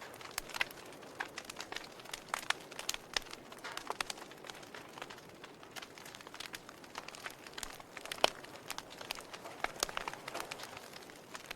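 Wood fire in a fireplace crackling, with irregular sharp pops over a low hiss; one pop about eight seconds in is louder than the rest.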